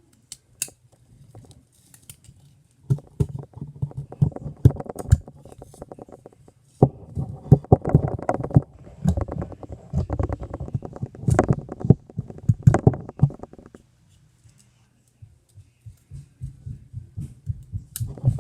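A knife shaving a wooden stick: rapid rasping scrapes in two long runs, with a short pause between them and weaker scrapes near the end.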